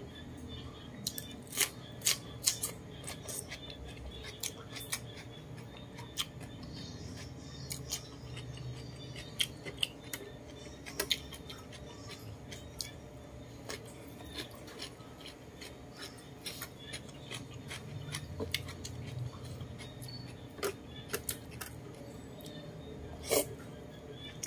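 Close-miked chewing and mouth sounds from eating roast chicken: irregular sharp clicks and smacks, thickest in the first half, with a louder one near the end as a chicken leg is bitten into.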